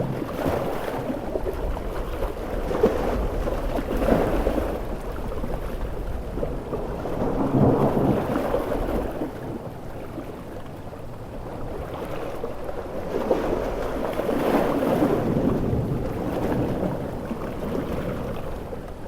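Storm ambience of heavy rain and sea waves with low rumbling thunder, the rushing swelling and easing several times in slow surges.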